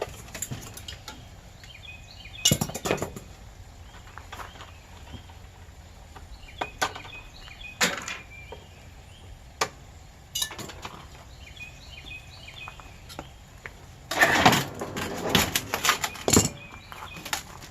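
Sheet metal and parts of air conditioner units clanking and knocking as they are pulled apart by hand, in single hits every few seconds, then a denser run of clattering about fourteen seconds in.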